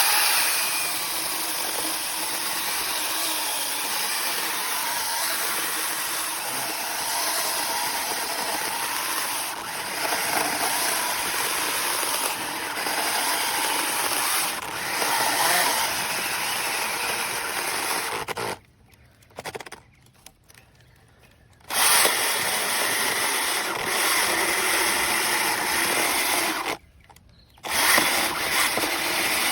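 Cordless battery-powered mini chainsaw running under its trigger, steady for long stretches. It is released and stops twice, with a short burst in between, then starts up again.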